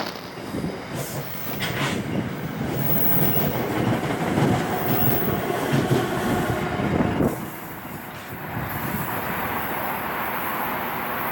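A train passing close by, with rumbling wheels on the rails. It cuts off abruptly about seven seconds in, leaving a quieter steady hiss.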